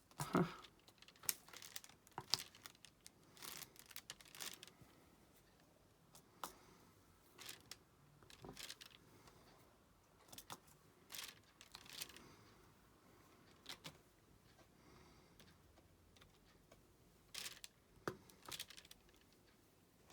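Faint, irregular small clicks and rustles of diamond painting: a drill pen picking up resin drills and pressing them onto the sticky canvas, one or two at a time.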